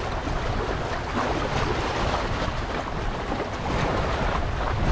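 Steady wind rumbling on the microphone over water washing against the rocky river shore.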